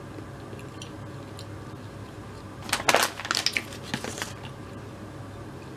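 A person chewing a crispy fried chicken sandwich up close: a cluster of crunchy clicks and crackles from about three seconds in, lasting a second or so, over a faint steady hum.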